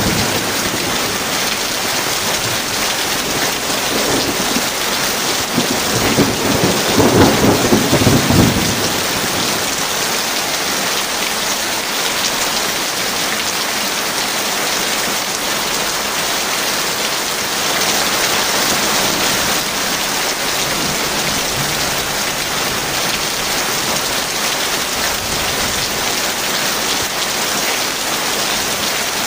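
Heavy rain falling steadily, with thunder rumbling low twice in the first third, the longer roll lasting a couple of seconds before dying away under the rain.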